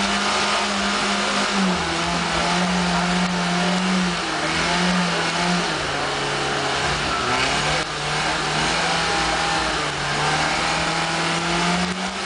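BMW E30 engine held at high revs during a stationary burnout, the revs rising and dropping a little every second or two as the throttle is worked, over the steady noise of the spinning rear tyres.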